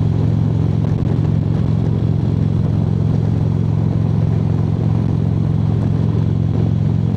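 Harley-Davidson V-twin motorcycle engine running steadily at highway cruising speed, with an even rush of wind and road noise over it.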